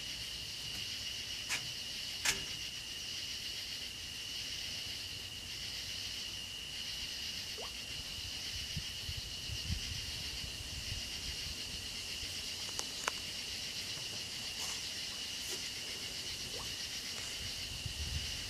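Steady, continuous high-pitched chorus of insects, with a few faint sharp clicks scattered through it.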